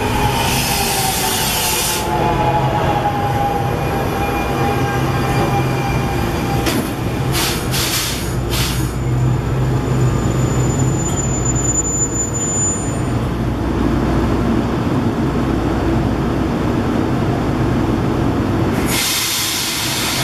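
NJ Transit commuter train braking into the platform, brakes squealing with a falling pitch as it slows to a stop. The stopped train then runs with a steady low hum, with short hisses in the middle and a loud hiss near the end.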